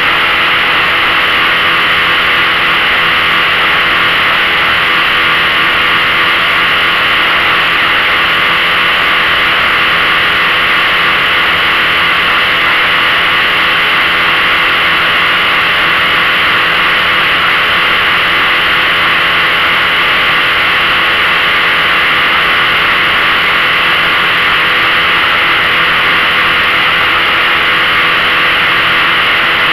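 15 hp outboard motor running steadily under way at a constant speed, under a loud, even rushing noise.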